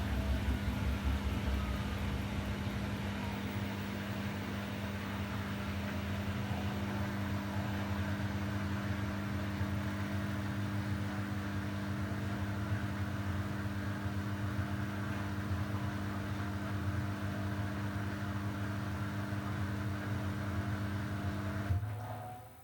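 Samsung WW90J5475FX digital inverter washing machine running through its rinse-and-spin programme: a steady motor hum over a low drum rumble, which drops away suddenly about a second before the end.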